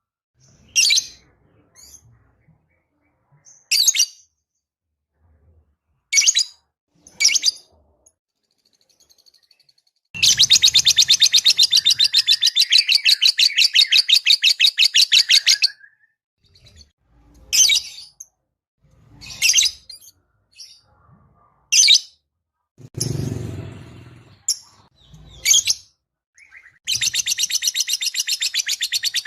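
Lovebird calling: short, sharp, high chirps a second or two apart, and two long, rapid, chattering trills of about six seconds each, the second starting near the end. A short, duller noise comes about two-thirds of the way through.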